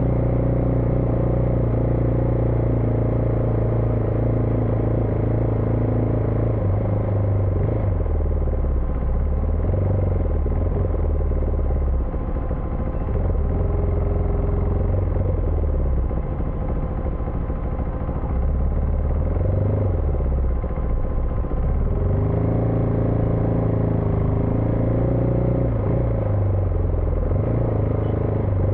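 Single-cylinder engine of a Husqvarna Vitpilen 401 motorcycle running while riding. Its pitch is steady at first, drops and rises several times through the middle, then holds steady again near the end.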